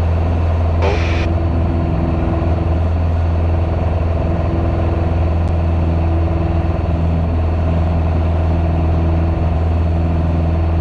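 Piper PA-28's piston engine and propeller running steadily at climb power, a loud low drone heard in the cockpit.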